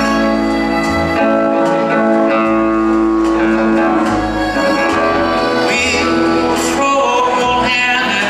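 Live country band playing a slow ballad: an instrumental passage of long held melody notes over guitar and bass.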